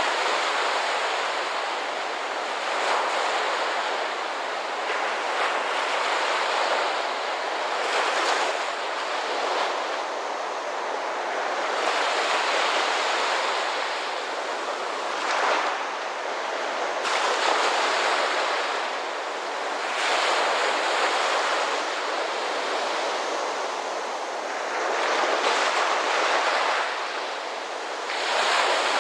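Ocean surf: waves washing in and breaking, the rushing hiss swelling and easing every few seconds.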